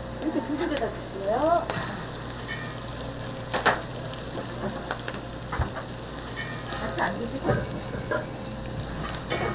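Food frying on a hot street-stall griddle: a steady sizzle with a few sharp clicks and knocks of utensils, the loudest a little under four seconds in.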